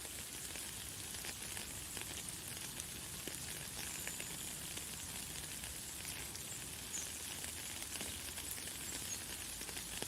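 Light, fine rain falling steadily, a dense patter of tiny drops with a high hiss. A few faint, short, high bird chirps come through it now and then.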